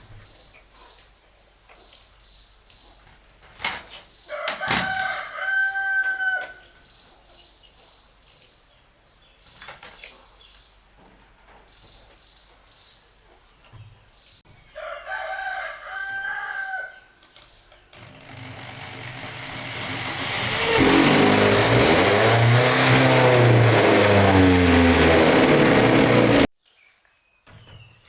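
A rooster crows twice, about five seconds in and again about fifteen seconds in. Then a loud rushing noise builds over a few seconds, holds steady, and cuts off abruptly near the end.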